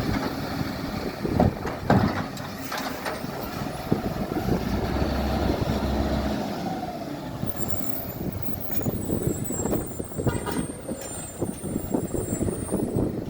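Garbage truck working: its engine running under sharp knocks and clatter in the first few seconds, then a high hiss past the middle.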